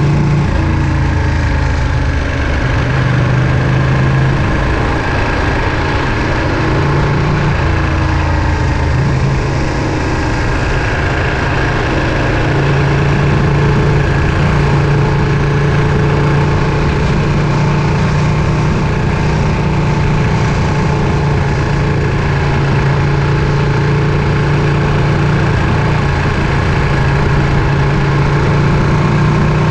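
Ducati Panigale V2's 955 cc Superquadro V-twin engine running. Its low note drops and rises several times in the first ten seconds, then holds steadier and slowly climbs.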